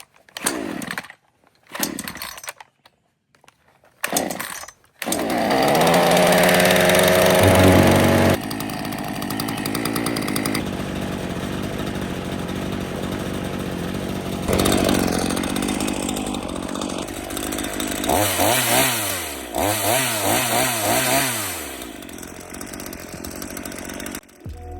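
Chainsaw being pull-started with the choke on after priming: a few short pulls of the starter, then it catches about five seconds in and runs fast. It settles to a lower, steady speed, then is revved up and down several times before dropping back.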